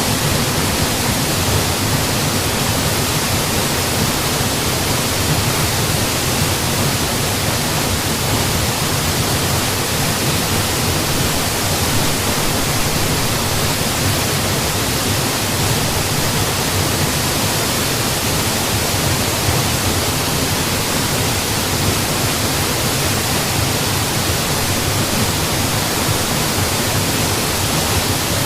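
Waterfall: water falling and splashing, a steady, even rush with no change.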